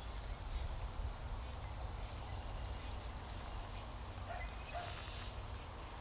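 Faint birdsong from the woodland: a few short, scattered bird calls, including a pair of brief lower notes past the middle, over a low rumble.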